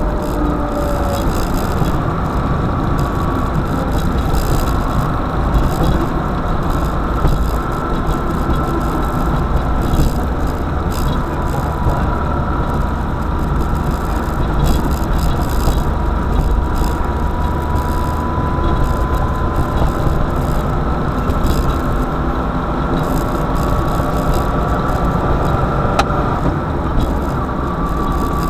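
A car being driven: steady engine and road noise, heaviest in the low end, with a faint high whine that slowly drifts in pitch.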